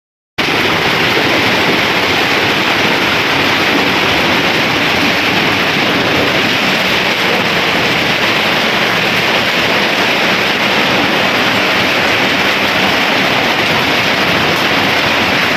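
Hailstorm: a dense, steady hiss of hail and rain pelting down, starting abruptly about half a second in.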